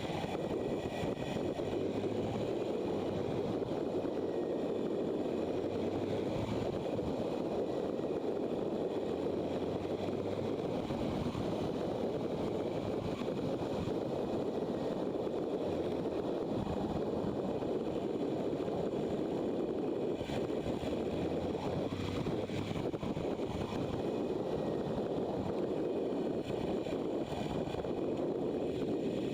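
Motorcycle running along a road while being ridden, heard as a steady rushing mix of engine and wind noise with no breaks or changes in level.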